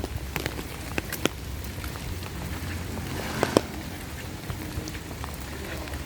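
Steady rain falling, with scattered sharp drop hits, a few louder ones near the start and about three and a half seconds in.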